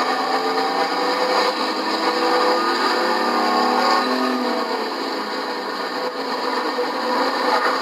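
Race truck engines running at speed around the track, several at once, their pitch shifting up and down as they pass.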